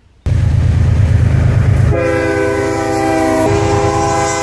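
BNSF diesel freight locomotive passing close with a heavy low engine and rail rumble. About two seconds in, its air horn sounds a chord of several notes, and the chord shifts in pitch partway through.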